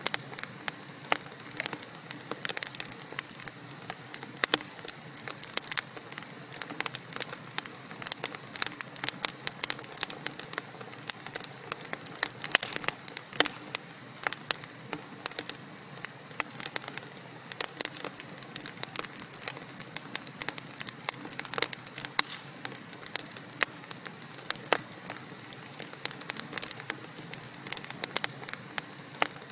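Wood fire burning in a fireplace: frequent irregular crackles and pops of burning logs over a soft steady hiss.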